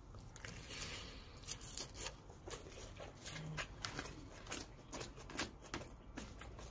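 Close-up chewing of a mouthful of salad with stale croutons: irregular crisp crunches and crackles.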